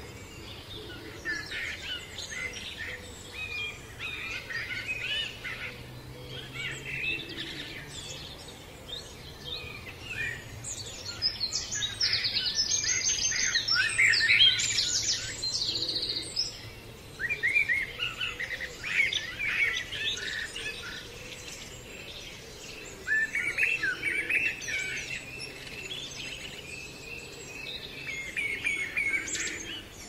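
Several songbirds singing and calling in a mix of short chirps and warbled phrases over a faint steady background. A burst of fast, dense song about halfway through is the loudest part.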